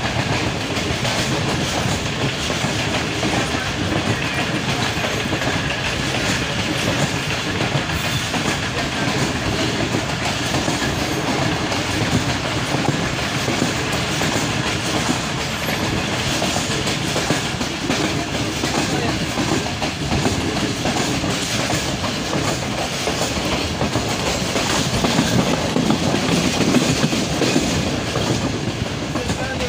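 Passenger train running along the track: a steady rumble with the wheels clicking over the rail joints, growing a little louder near the end.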